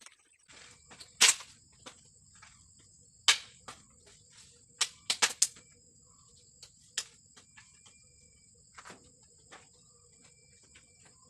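Insects droning steadily at a high pitch, with a handful of sharp knocks: the loudest come about a second in and about three seconds in, with a quick cluster of three or four around five seconds.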